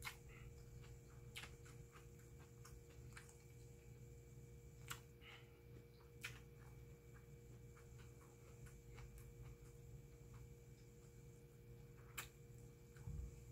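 Faint chewing of a mouthful of rice with the mouth closed: a few scattered wet mouth clicks several seconds apart over a steady low room hum.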